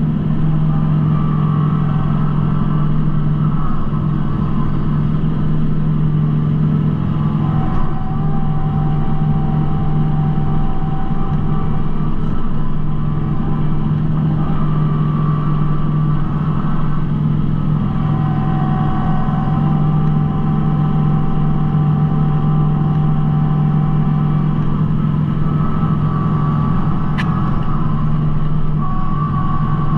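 Kubota B2650 compact tractor's three-cylinder diesel engine running steadily under load, with a higher whine that rises in and fades out several times.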